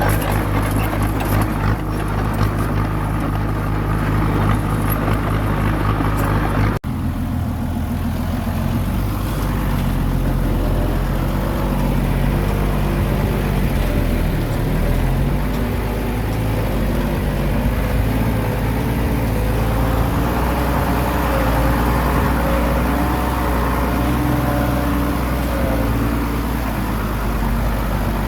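Small bulldozer's diesel engine running steadily. The sound changes abruptly about seven seconds in, and in the second half the engine note wavers up and down as the machine works.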